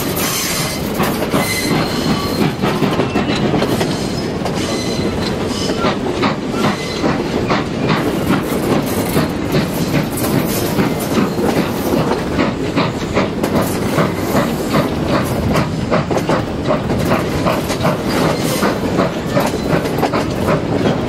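Passenger coaches of a steam-hauled train running on the rails, wheels clicking rapidly and rhythmically over the track under a steady rumble. Thin high wheel squeal sounds in the first few seconds as the train takes a curve.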